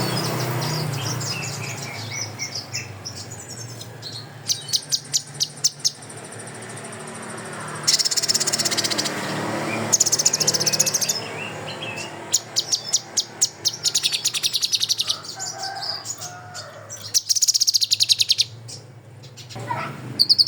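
Recorded songbird song of the kind used for masteran training: repeated bursts of fast, high-pitched rattling trills and chirps, the rapid 'tembakan' (shooting) phrases. A steady low hum runs underneath.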